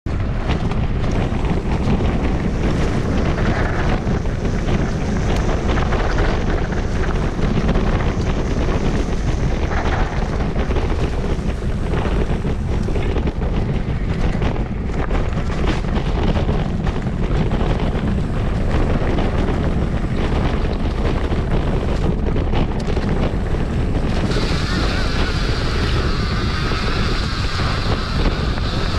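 Steady wind buffeting the microphone over a continuous rushing noise, heaviest in the low end. About 24 seconds in, a brighter, higher hiss joins it.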